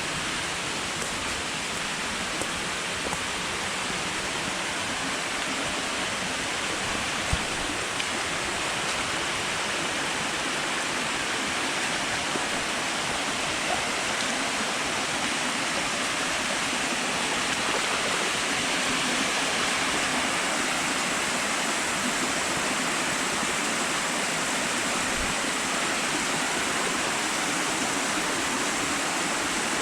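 Steady rushing of falling or flowing water, like a waterfall or stream, with a faint click or two about seven seconds in.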